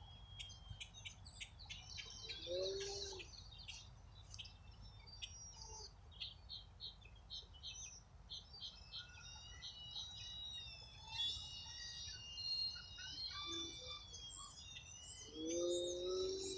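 Songbirds singing and chirping, with rapid high chips and long wavering whistled notes, over a low steady rumble.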